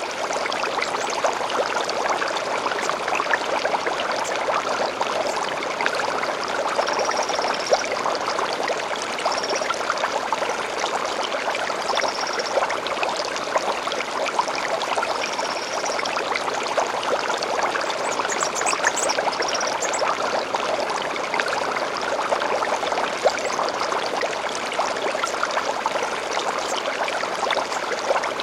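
Small stream flowing and trickling steadily, with a bird giving a short high call every few seconds and a quick run of higher chirps about two-thirds of the way through.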